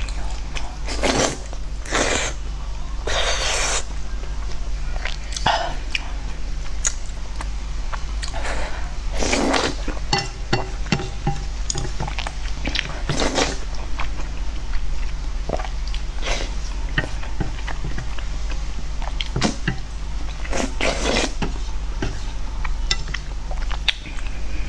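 Close-miked eating sounds: irregular chewing with small wet clicks, and several louder bites or crunches spread through, over a steady low hum.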